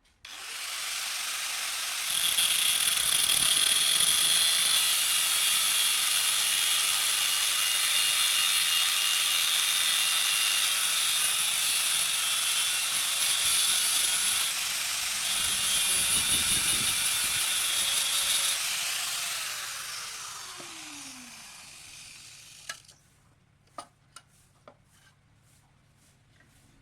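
An electric power tool working metal runs steadily for about twenty seconds. It then winds down with a falling whine as the motor coasts to a stop, followed by a few light clicks.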